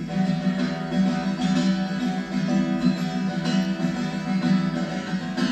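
Acoustic guitar strummed and picked, an instrumental passage between sung lines of a song.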